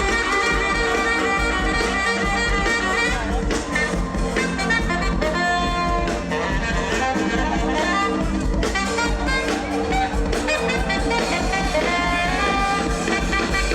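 Live highlife band music: a horn section plays melodic lines over drums and bass.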